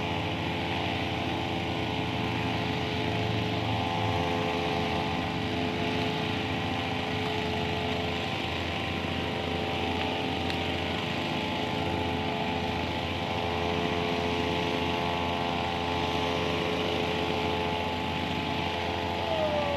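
A motor running at a constant speed, a steady unchanging hum with a hiss over it.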